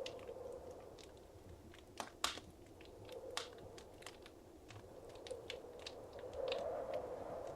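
Wood fire crackling in a fireplace: irregular small snaps and pops, the two loudest about two seconds in, over a steady low rush of flame that swells near the end.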